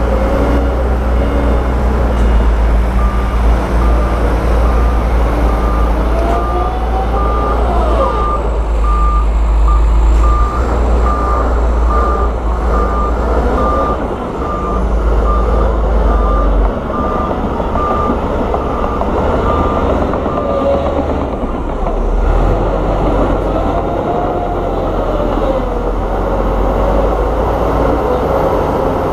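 Heavy diesel earthmoving machinery running, with a reversing alarm beeping at a steady pace from a few seconds in until about two-thirds of the way through, when it stops.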